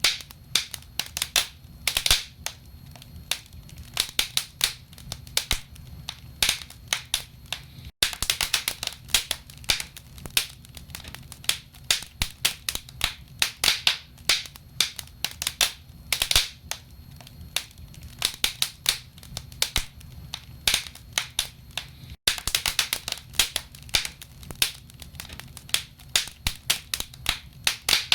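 Wood fire in a fireplace crackling, with dense, irregular sharp pops and snaps of burning logs over a low steady rumble. The sound cuts out for an instant twice, about eight seconds in and again about twenty-two seconds in.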